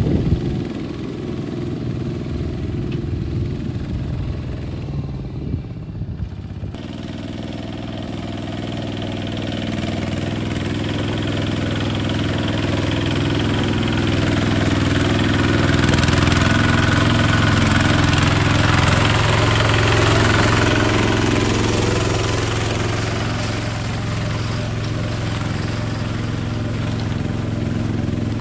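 Engine of a small bulldozer running steadily. It gets louder through the middle as it works, then eases back.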